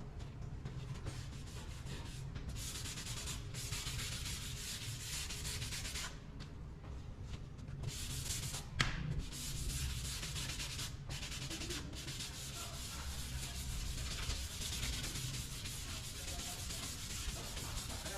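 Sanding body filler (Bondo) on a car body panel: long stretches of gritty rasping that stop briefly several times, with a single sharp knock about halfway through.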